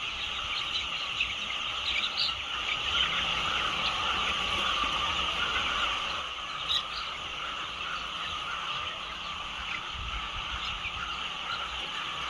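A dense, steady chorus of many small chirps and calls from a crowd of small animals, with an occasional louder single chirp standing out.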